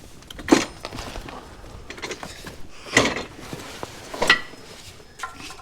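Metal tools clinking and knocking: three main sharp clanks, the last with a short metallic ring, and lighter clicks between, as a socket extension is worked up into the tractor's PTO housing.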